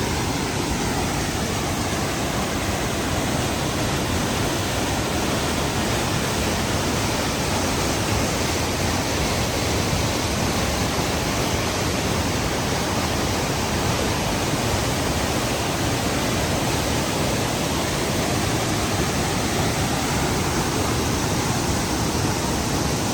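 Small mountain waterfall spilling through a rock opening, making a steady, even rushing of falling water up close.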